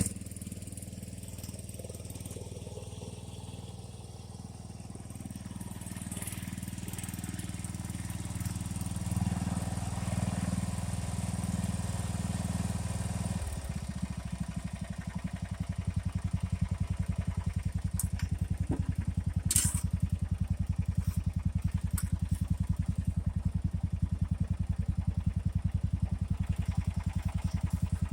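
Small single-cylinder riding lawn mower engine running steadily. About halfway through its note drops and settles into a slower, evenly pulsing beat, with a couple of short clicks a few seconds later.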